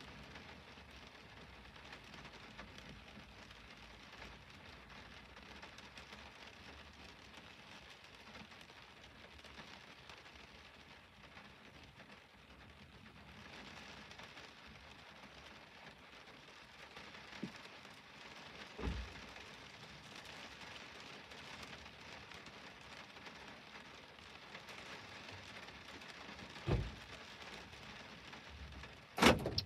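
Fine rain falling on a parked car, heard from inside the cabin as a faint steady patter. A few dull thumps come in the second half, and a louder knock just before the end.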